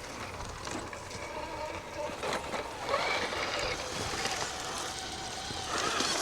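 Mini RC crawler's small electric motor and gears whining as it drives, starting about three seconds in and rising briefly in pitch, with scattered clicks and scuffs from the truck working over the terrain.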